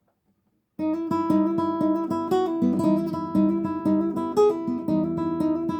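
Guitar being fingerpicked as a finger exercise, starting a little under a second in: a steady run of plucked notes, several a second, over recurring bass notes.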